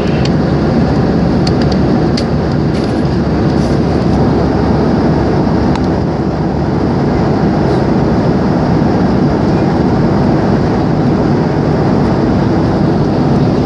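Steady, loud drone of an airliner's cabin noise.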